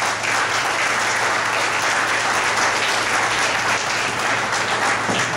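Audience applauding: dense, even clapping from many hands.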